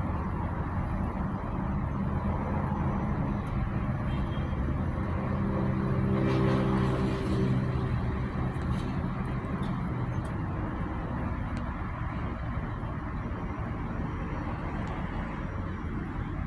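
Steady engine noise with a low hum that swells louder about six seconds in, then fades back.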